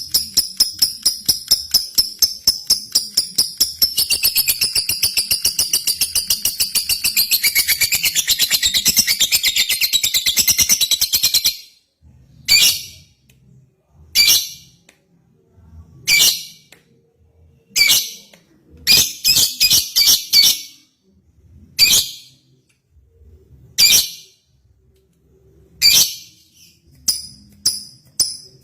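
Lovebird (Agapornis) singing: a long, rapid, unbroken chattering trill for about the first twelve seconds, then it breaks off into single sharp chirps about every two seconds. A quick burst of several calls comes midway, and a fast run of calls starts again near the end.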